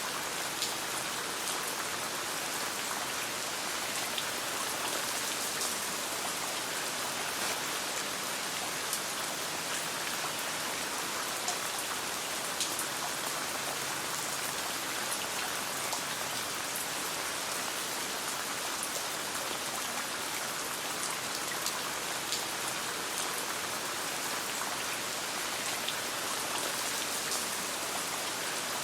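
Steady rain falling as a dense, even hiss, with scattered sharp pops from a crackling campfire.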